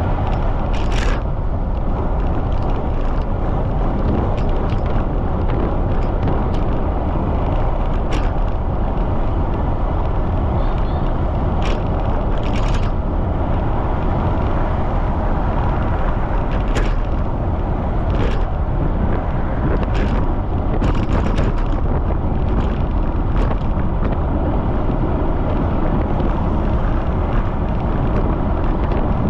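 Strong wind buffeting the microphone of a camera riding on a moving bicycle, a steady loud rumble, with a dozen or so short sharp clicks scattered through it.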